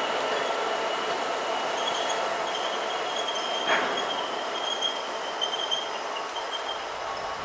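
Oil train's bogie tank wagons rolling past on the rails: a steady, slowly fading wheel-and-rail noise with on-and-off high-pitched wheel squeal through the middle, and a single sharp clack about four seconds in.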